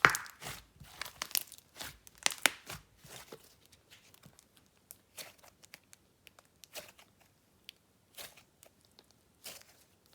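Hands stretching and pressing a soft icing slime, making irregular sticky pops, crackles and squelches. These are densest and loudest in the first couple of seconds, then come more sparsely.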